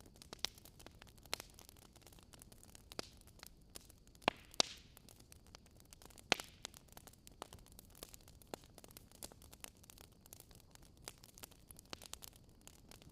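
Wood fire crackling: irregular pops and snaps over a steady soft hiss, with the sharpest pops a little over four seconds in and again about six seconds in.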